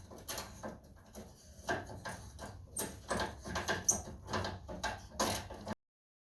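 Irregular clanks, clicks and scraping of hand tools working on metal engine parts, with no steady engine sound; the audio cuts to dead silence near the end.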